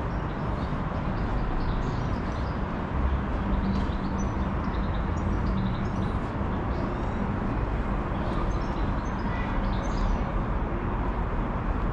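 Outdoor city ambience: a steady low rumble with small birds chirping on and off.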